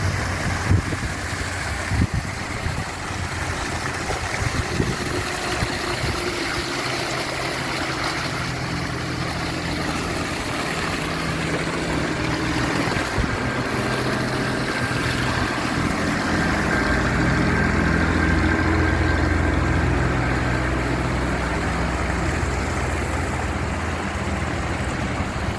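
Water pouring over an artificial waterfall, a continuous rushing hiss, with a steady low engine-like hum underneath that swells in the middle.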